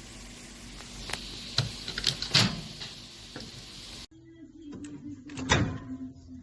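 A run of sharp clicks and knocks over a steady hiss, then a steady low hum with two more knocks.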